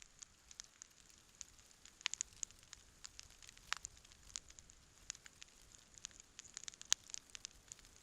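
Wood campfire crackling, with irregular sharp pops and snaps over a faint hiss. The loudest pops fall about two seconds in, near the middle and about seven seconds in.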